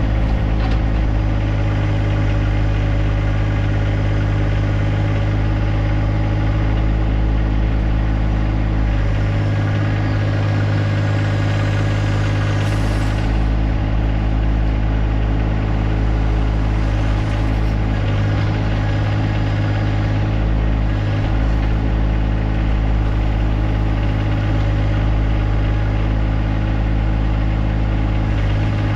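John Deere 1025R compact tractor's three-cylinder diesel engine running steadily, its note shifting slightly a couple of times.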